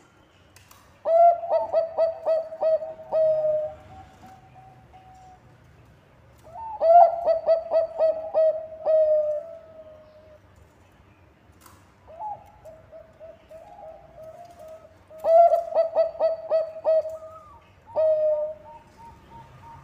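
Bangkok perkutut (zebra dove) singing: three bouts of quick, staccato cooing notes, each running into a drawn-out final coo, with softer coos in between.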